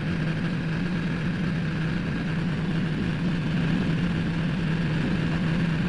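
BMW S1000RR inline-four idling steadily while its radiator cooling fans run, switched on early at 95–96 °C by a reprogrammed ECU.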